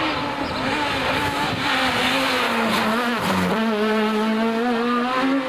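Rally car engine running hard at high revs as the car goes by, with a rough hiss of tyres in the middle. The revs sag, dip briefly about three seconds in, then pick up and hold steady.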